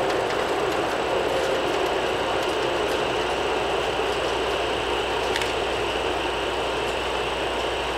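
E7 series Shinkansen train pulling slowly out of the station as its last car and rear nose pass close by: a steady running and rolling noise with a few faint clicks.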